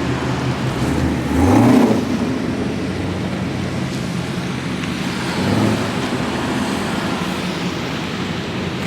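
Car engine idling, with a short rev rising in pitch about a second and a half in and a smaller swell around five and a half seconds.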